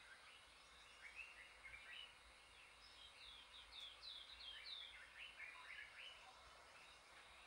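Faint birdsong: many short chirps and quick downward-sliding notes, repeated in runs.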